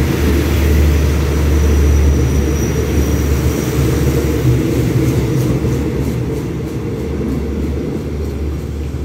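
A diesel-hauled passenger train pulling out, its coaches rolling past on the rails with a steady low rumble. A run of light clicks comes about halfway through, and the rumble slowly fades as the train moves off.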